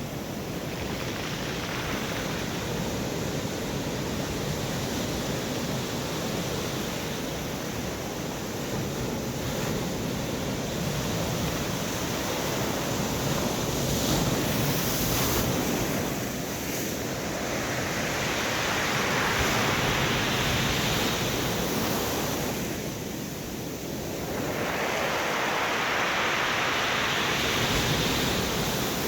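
Stormy sea surf breaking on the beach, the wash swelling and ebbing in long surges every several seconds, with strong wind buffeting the microphone.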